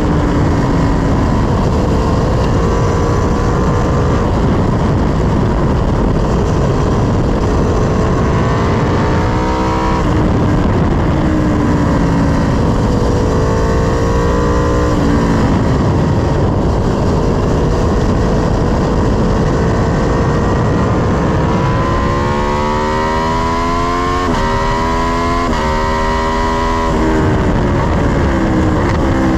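Sport motorcycle engine heard from on board at track speed, its pitch climbing hard and dropping sharply at each upshift, with several quick shifts in a row near the end and stretches where the pitch falls away under braking. A heavy, steady wind rush runs under it.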